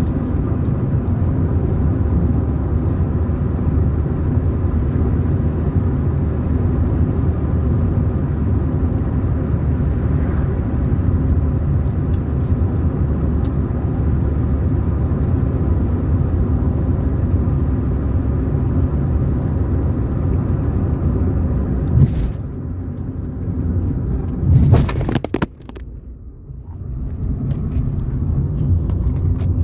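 Car driving along a road: a steady low rumble of engine and tyres. About 22 seconds in there is a sharp knock, then a louder jolt near 25 seconds, and the noise drops for about two seconds before building back up.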